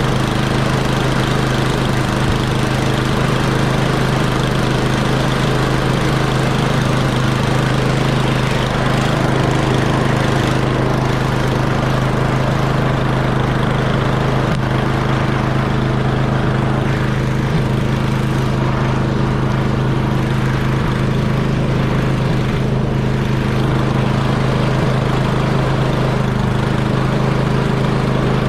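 Snowblower's small gasoline engine running steadily at an even speed.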